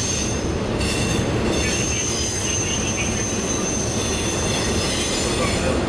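Train rolling past, a steady rumble of wheels on the rails with a high wheel squeal that sets in about a second in and holds.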